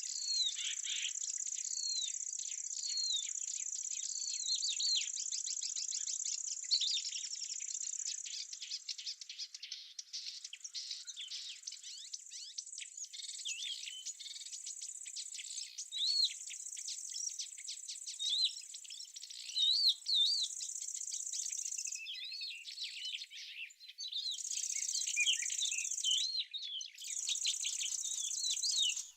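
Insects trilling steadily in a high, hissing band that stops and restarts in bouts in the second half, with small songbirds chirping over it in quick, curling notes throughout.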